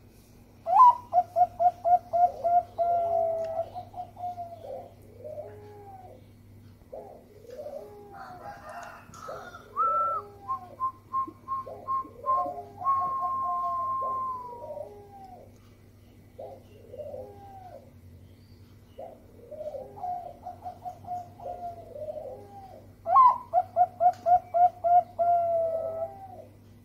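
Zebra dove (perkutut) singing: rapid runs of short, clipped cooing notes about a second in and again near the end, with rounded, bending coos between them. A higher, steadier whistled note sounds through the middle, over a faint steady hum.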